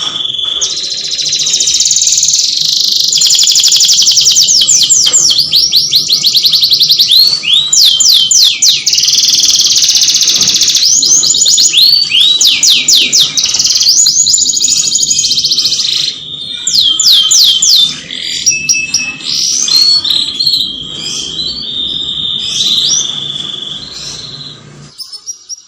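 Canary singing a loud, continuous song of fast trills and rapidly repeated rising and falling notes, with a few steady held whistles between them. The song stops about a second before the end.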